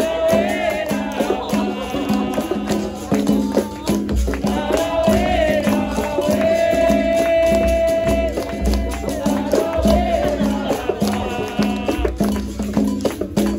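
Capoeira roda music: a berimbau twanging in a steady rhythm with the caxixi rattle shaken alongside, over hand percussion and low drum beats. A voice sings long held, wavering notes above the instruments.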